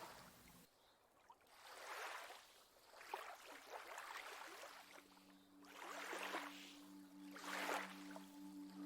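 Faint lake water lapping in soft swells about every one and a half to two seconds. A soft, low sustained music tone comes in about halfway through.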